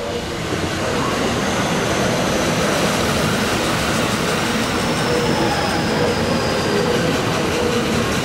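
EF65 electric locomotive hauling a rake of unpowered Odakyu 5000-series EMU cars on a curve, a steady rolling rumble of wheels on rail, with a faint high wheel squeal that slowly falls in pitch.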